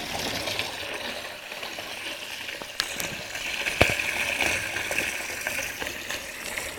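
Two homemade water pumps driven by hard-drive spindle motors, running in series, give a steady whir mixed with rushing, churning water and a few sharp clicks. One pump runs louder than the other, which the builder puts down to the motor's unstable running and vibration.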